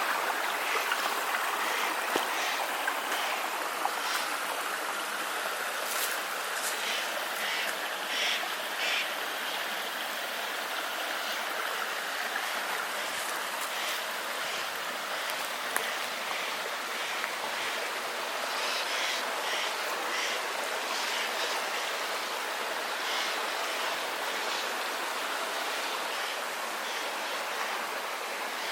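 Steady rush of running water from a mountain stream and waterfall, with a few faint short high-pitched sounds over it at times.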